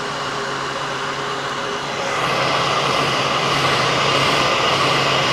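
Electric heat gun running, a steady fan hum with rushing air, louder from about two seconds in. It is heating old boat decals to soften them for peeling off.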